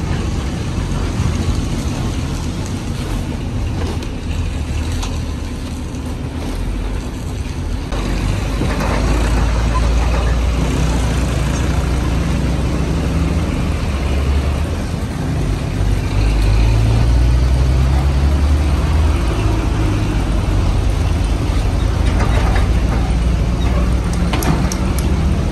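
A heavy vehicle's engine running, with a deep rumble whose speed rises and falls.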